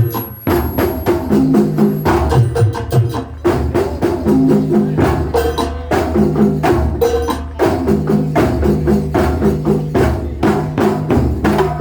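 Live kuntulan ensemble music from Banyuwangi: fast, dense percussion with sharp repeated strikes, over a repeating pitched pattern of low and middle notes.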